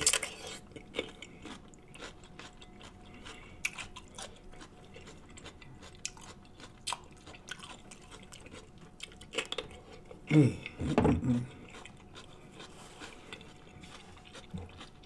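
Close-miked bite into a crisp whole cucumber, then chewing with many short, crisp crunches and wet mouth clicks. About ten seconds in, a brief low voice sound rises over the chewing.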